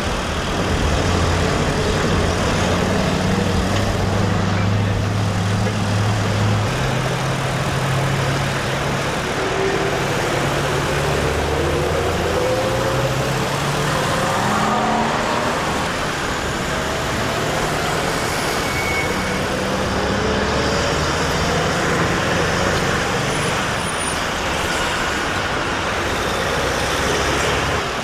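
Street traffic with heavy road vehicles running by: a steady rumble, low engine hums that step up and down in pitch, and a few rising whines in the middle of the stretch.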